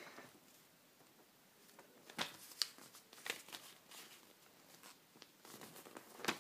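A sheet of paper being folded and creased, with a few sharp crinkles about two seconds in and a cluster of them near the end.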